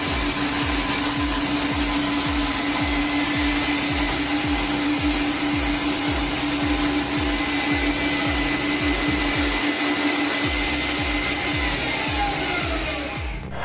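A large powered wood saw runs steadily as an even machine whine with a constant hum. A regular music beat plays underneath. Near the end, a tone falls in pitch as the machine winds down.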